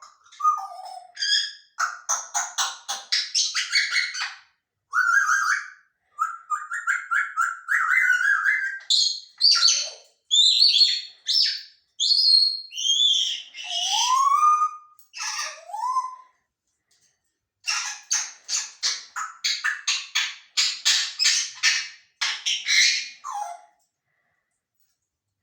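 Pet parrot calling in fast runs of short chattering notes, with whistles and a couple of rising calls in the middle. It pauses briefly about two-thirds through and falls silent near the end.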